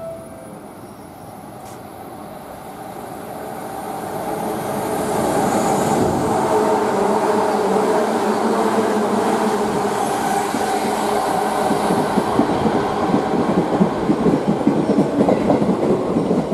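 JR 185 series electric train drawing up to and running past a station platform. Its traction motor hum grows louder over the first few seconds and then holds. In the last few seconds a fast clatter of wheels over rail joints comes in.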